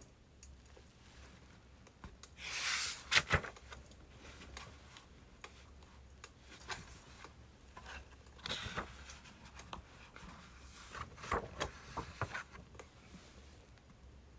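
Birch logs burning in a fire, crackling with irregular sharp pops and snaps and a few short hissing surges.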